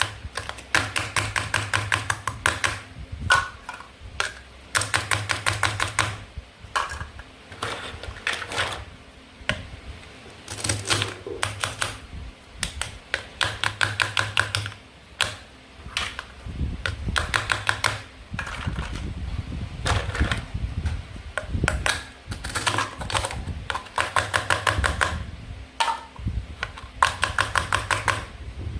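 Toy fruit and vegetable pieces being cut apart with a toy knife: repeated bursts of rapid clicking, each about a second long.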